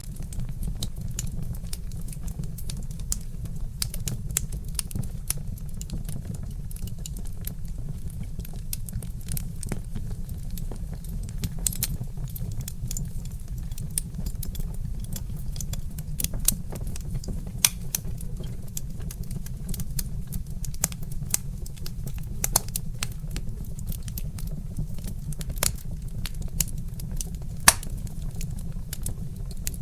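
Wood fire crackling: frequent small, irregular pops and snaps over a steady low rumble, with one sharper pop near the end.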